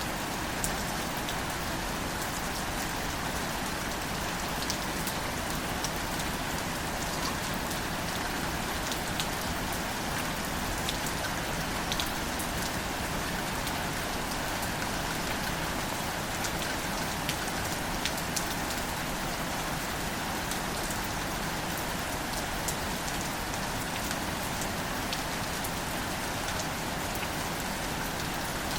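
Steady, gentle rain falling on plants and leaves, with many small drop ticks scattered through it.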